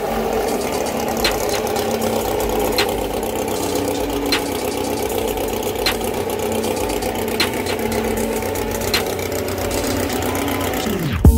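Air-cooled flat-four engine of a classic Volkswagen Beetle idling steadily.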